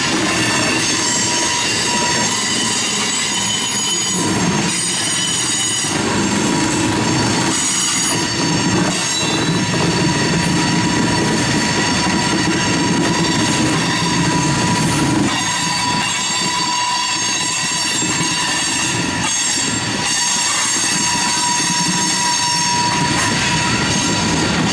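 Coal cars of a long freight train rolling past, their steel wheels squealing on the rails in steady high-pitched tones over the continuous rumble and clack of the trucks.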